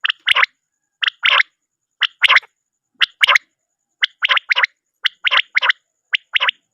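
Common quail calling over and over, about once a second: each call is a short thin note followed by one or two longer, rasping notes.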